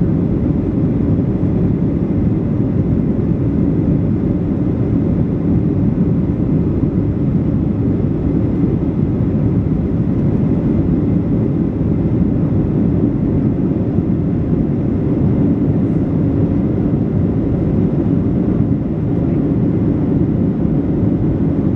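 Steady low roar of a Boeing 737-700 jet airliner's engines and airflow at climb power after takeoff.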